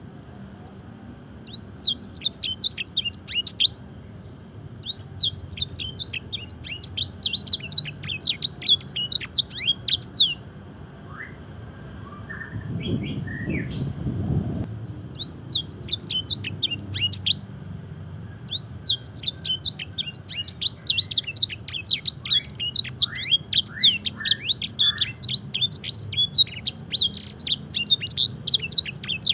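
Canary singing, its song filled with notes copied from the blackthroat. It comes in bouts of rapid, high, chirping sweeps with short pauses between them, and there is a brief low rumble in one pause about halfway through.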